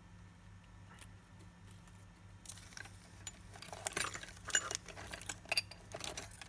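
Light metallic clinking and rattling of a watch and small metal parts being handled, a quick, irregular run of clicks starting about two and a half seconds in and stopping shortly before the end.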